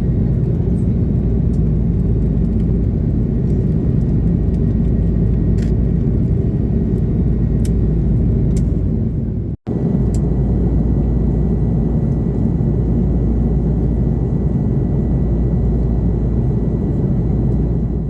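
Steady low rumble of an Airbus A330-300 cabin with its GE CF6-80 engines running, with a faint thin whine above it. The sound drops out for a split second about halfway through, then resumes unchanged.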